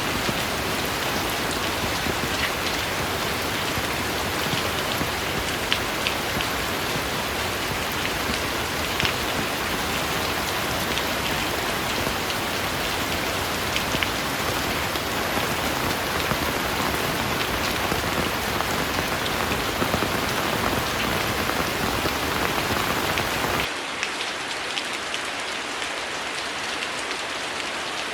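Heavy rain falling steadily, with many individual drops heard as sharp ticks. About 24 s in the sound changes abruptly to a slightly quieter, thinner rain with less low rumble.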